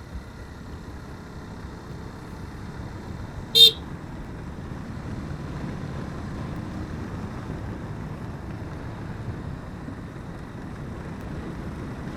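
Motorcycle running along a road, a steady engine and road rumble, with one short beep of a horn about three and a half seconds in.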